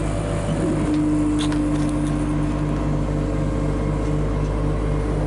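A vehicle engine running steadily at low speed, with a regular throb and a steady hum that comes in about a second in.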